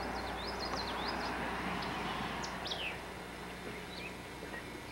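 Small birds chirping in many quick, short calls, thickest in the first three seconds and then thinning out, over a steady background hiss and low hum.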